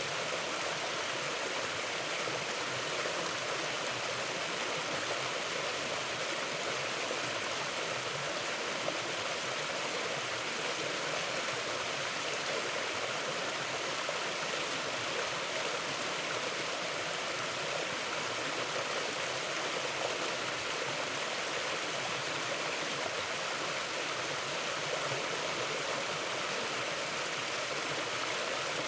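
A mountain stream flowing over rocks: a steady, even rush of running water.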